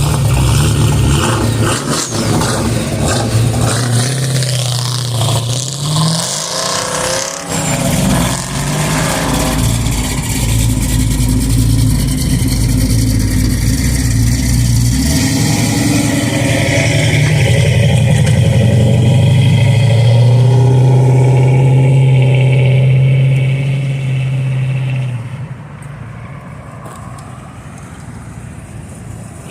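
Car engine running loudly, its pitch rising and falling a few times in the first eight seconds, then holding a steady note before dropping away about twenty-five seconds in.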